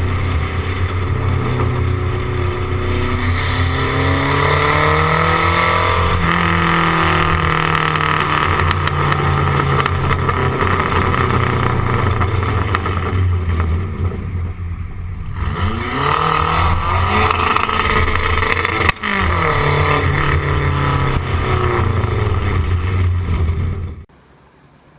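Turbocharged Renault 5's four-cylinder engine running hard, its pitch rising and falling with the revs, easing off briefly around the middle. The sound cuts off abruptly about a second before the end.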